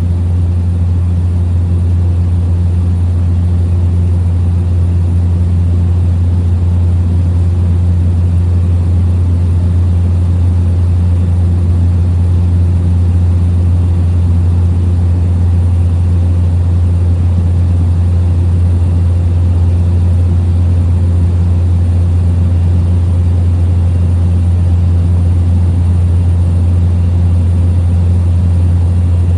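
Steady drone of a small plane's piston engine and propeller in cruise, heard inside the cabin: a deep, even hum that does not change in pitch or loudness.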